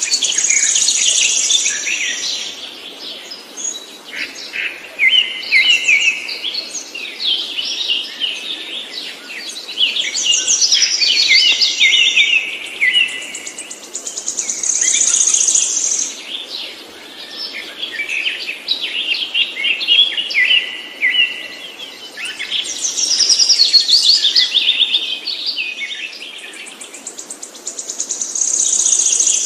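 A songbird singing long, high, rapidly trilling song phrases, a few seconds each, one after another with short pauses between them.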